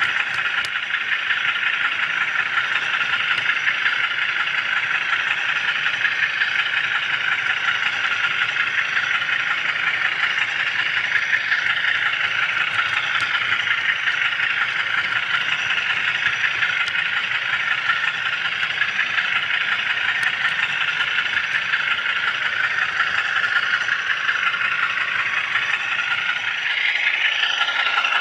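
Steady rattling of HO scale model train wheels rolling along the track, picked up close by a camera riding on the moving car.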